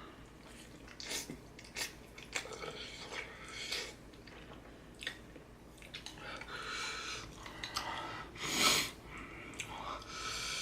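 A person chewing a mouthful of instant noodles, with scattered short mouth clicks and a longer noisy rush about eight and a half seconds in.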